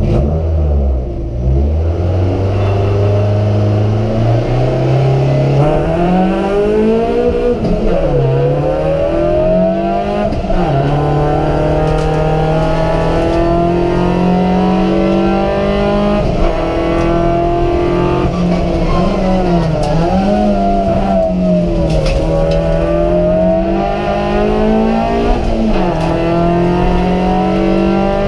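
Opel Corsa's Z14XEP 1.4-litre four-cylinder petrol engine at full throttle, heard from inside the cabin: it pulls away from a low note and climbs through the gears, its pitch rising steadily and dropping sharply at each gear change, several times over.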